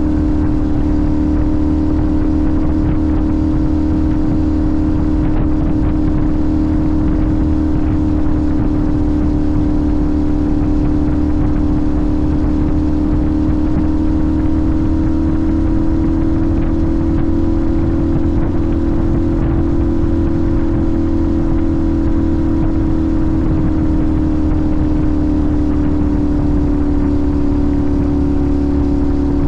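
Sportbike engine cruising at steady revs over a steady low rush. The engine note rises a little around the middle and eases back before the end.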